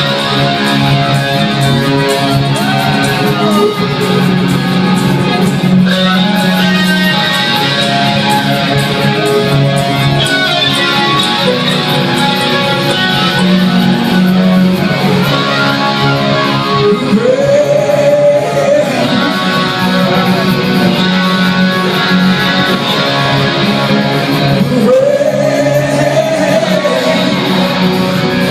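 Live rock band performing: electric guitars strummed over a steady bass line, loud and dense, with a wavering higher line rising above the mix twice in the second half.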